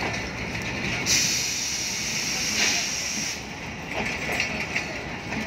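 Passenger train coaches rolling past on the track. A loud hiss starts suddenly about a second in and cuts off about two seconds later, and a few sharp clicks follow near the end.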